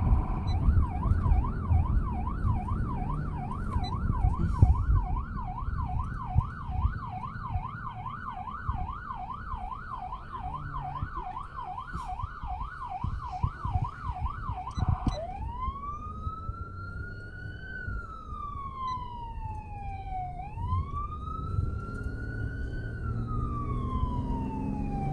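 Ambulance siren running code: a fast yelp sweeping up and down about three times a second, switching about fifteen seconds in to a slow wail that rises and falls twice. Low engine and road rumble runs underneath.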